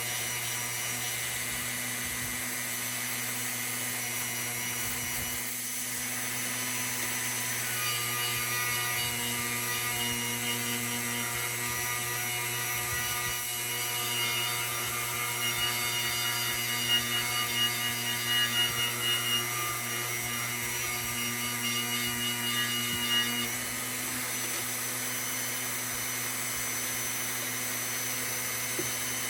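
Small electric power tool running steadily, cleaning tarnish off the lantern's brass. From about eight seconds in to about twenty-three seconds it bears on the metal, adding an uneven rasping over the motor's hum.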